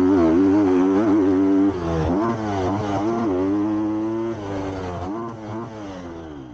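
Triumph TF250-X motocross bike's 250cc four-stroke single-cylinder engine being ridden, revving up and down as the throttle is worked. It drops in level about two seconds in and fades out near the end.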